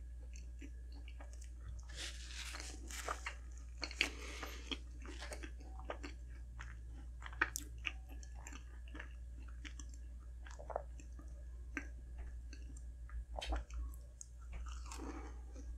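A person chewing a McDonald's blueberry cream pie close to the microphone, with a few bites and scattered small mouth clicks over a steady low hum.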